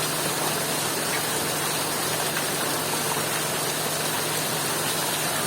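Heavy rain falling steadily, an even unbroken hiss with no changes, over a faint steady low hum.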